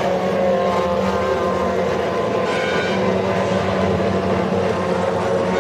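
Steady engine drone with several held pitched tones that drift only slightly in pitch.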